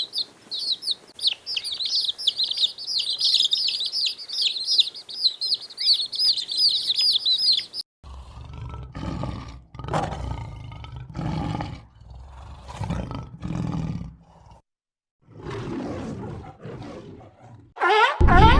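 Small birds chirping rapidly and continuously for about eight seconds. The sound then changes abruptly to a series of short, low, rough animal calls, about one a second, with a brief pause before the last few.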